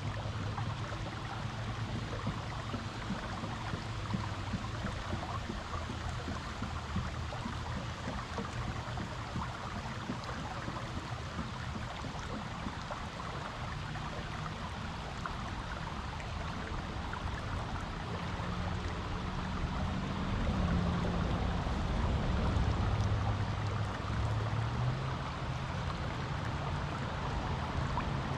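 River water flowing over rocks, a steady rushing splash, with a low rumble underneath that swells for a few seconds about two-thirds of the way through.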